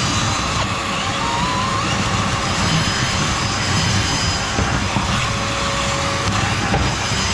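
A steady machine drone with an airy rush of noise and a faint steady whine running through it, unchanging throughout.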